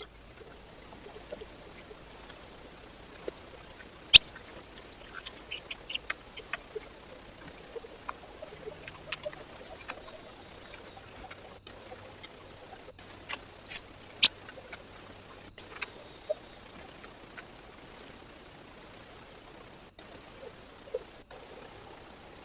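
Irregular sharp taps and clicks of small animals feeding at a bird feeder, pecking and scratching at seed, over the trail camera's steady hiss. The loudest taps come about four seconds in and again about fourteen seconds in.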